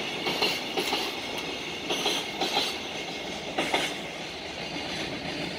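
Wheels of JR Freight container flatcars clattering over rail joints as the wagons roll past, in clusters of clicks over a steady rumble. The clicks stop about two thirds of the way in as the last wagon passes, leaving a steadier, fading rolling noise.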